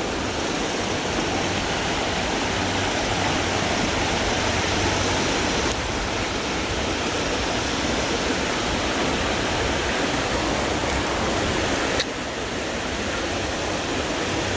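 Steady rush of flowing creek water, with a single sharp click near the end.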